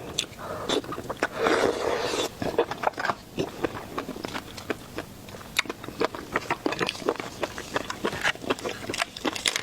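Close-miked eating of shellfish: irregular sharp cracks and crunches of shell being broken and chewed, with a denser scraping stretch about one and a half seconds in.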